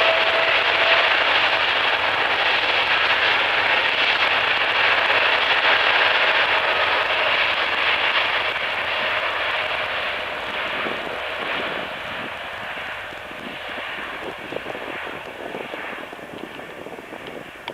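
Aircraft engines passing by: a loud, even engine roar with a steady whine in the first several seconds, fading away over the second half.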